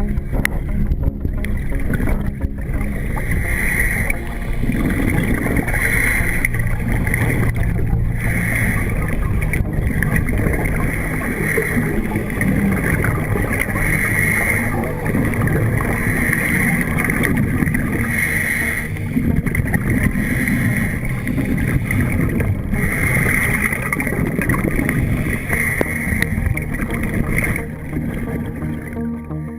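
Motorboat under way: engine running with wind on the microphone and rushing water, the noise swelling brighter about every two seconds.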